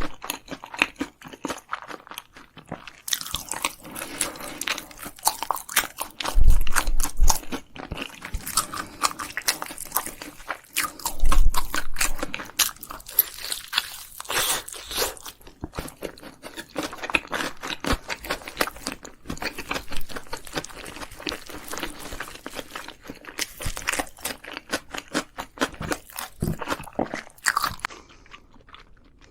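Close-miked eating: a person crunching and chewing through spicy Korean food in repeated crackly bites. There are two low thuds about six and eleven seconds in.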